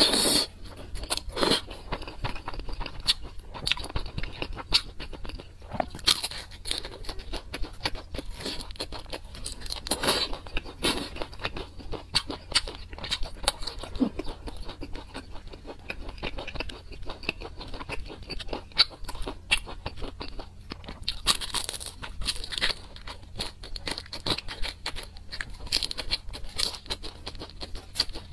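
Close-miked eating sounds: biting and chewing skewered rice cakes and fish cakes in a spicy sauce, with wet crunches, mouth clicks and smacks coming irregularly several times a second.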